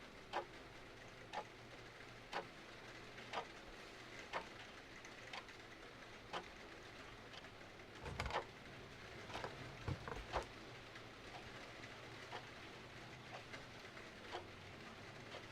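A clock ticking about once a second over steady rain, with a short run of fireplace crackles and pops about halfway through.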